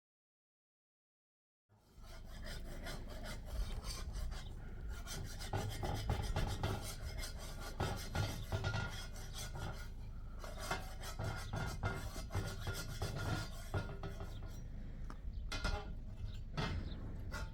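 Dead silence for nearly two seconds, then a continuous rough scraping, rubbing sound made of many small uneven strokes.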